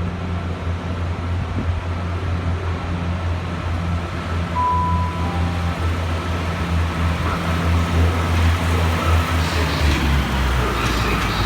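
Diesel train engine idling at the platform, a steady low hum that grows slightly louder towards the end. About four and a half seconds in there is a short beep, then a fainter lower one.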